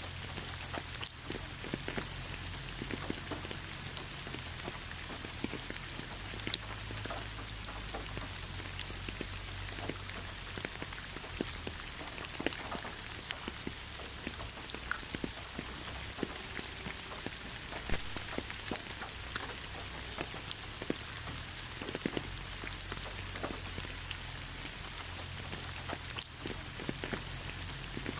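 Steady rain falling, with many separate drop hits clicking through the even hiss.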